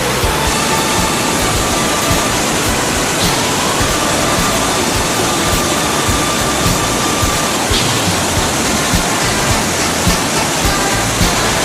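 Waterfall, a steady rush of falling water, with faint music underneath.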